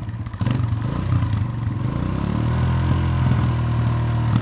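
Kawasaki 140 motorcycle engine running, its pitch shifting about a second and a half in and then holding steady.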